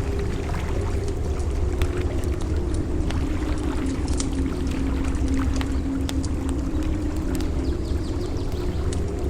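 Wood campfire crackling with scattered small pops, over a steady low wash of surf on the beach.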